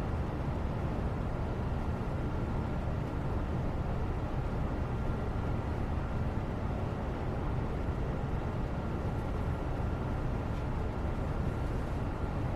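Steady background noise: an even, low-weighted rumble that does not change, with a faint steady high hum above it.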